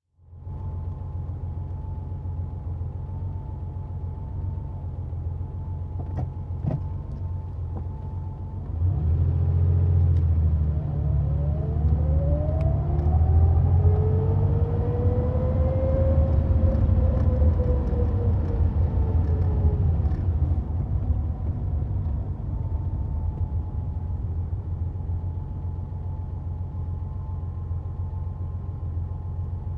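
A 1990 Porsche 911's air-cooled flat-six running at a steady idle with a thin whine over it. About nine seconds in it speeds up, rising slowly in pitch and then falling back, and settles to idle again after about twenty seconds.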